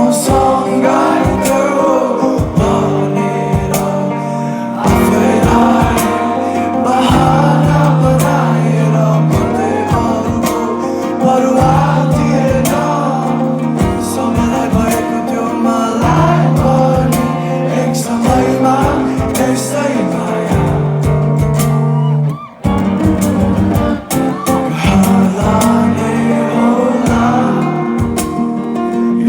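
Live band playing a Nepali rock song: a male singer over guitar and a steady bass line, with a momentary break in the sound about 22 seconds in.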